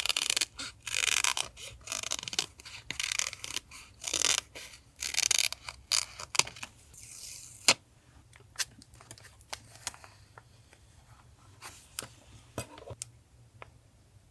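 Paper being handled and rubbed in short, quick scraping strokes for about seven seconds, then a run of scattered light clicks and taps that thins out near the end.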